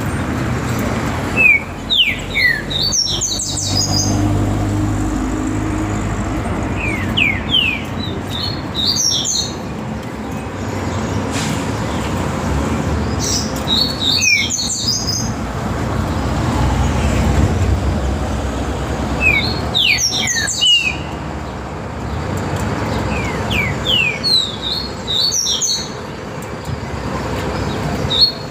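Trinca-ferro (green-winged saltator) singing its loud phrased song, repeated about every five to six seconds: a few quick falling slurred notes, then a burst of higher notes. A steady low rumble runs underneath.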